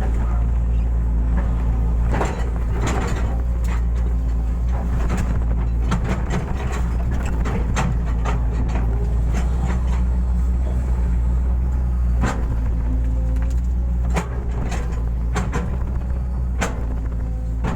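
Hitachi hydraulic excavator's diesel engine running steadily, with scattered sharp knocks and clanks from the machine at work digging a ditch.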